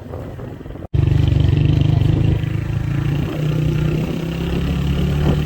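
Motorcycle engine running steadily while riding, a loud low engine note. It cuts out for an instant about a second in and comes back louder.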